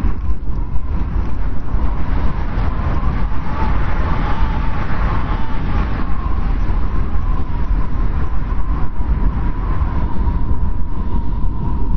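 Strong blizzard wind: a deep steady rumble with a wavering whistling howl on top that swells a few seconds in.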